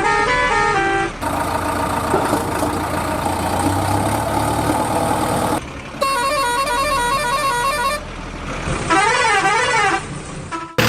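A string of electronic vehicle sound effects: a short horn-like tune in stepped notes, about four seconds of engine noise, then a rapidly warbling tone pattern and a tone that swoops up and down twice like a siren.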